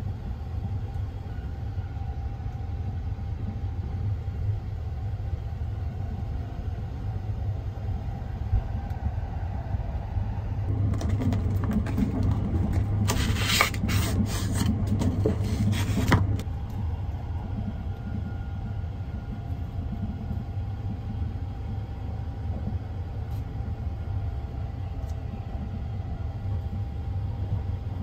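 Steady low rumble of a sleeper train running, heard from inside its compartment. From about 11 to 16 seconds, rustling and scraping as a cardboard lunch-box sleeve is handled and slid off.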